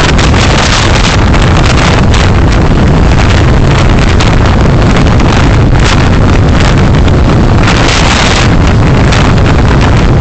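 Steady road and wind noise of a moving car, picked up very loud by a dashcam microphone.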